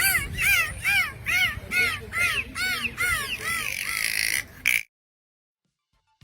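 Dolphin calling: a quick run of about eight squeaky, rising-and-falling chirps, roughly two to three a second, then a buzzy stretch that cuts off suddenly a little before five seconds in.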